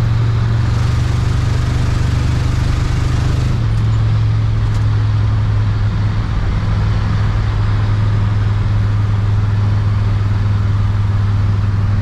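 Inside the cabin of a 1972 Oldsmobile Cutlass under way: a steady, loud drone from its 350 Oldsmobile V8 and the road. The drone steps slightly lower in pitch about three and a half seconds in.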